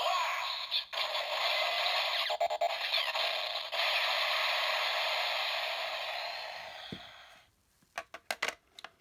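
Bandai DX Assault Wolf Progrise Key, with its Assault Grip attached, playing an electronic sound effect through its small speaker: a noisy rush that fades out about seven seconds in. A few sharp clicks follow near the end.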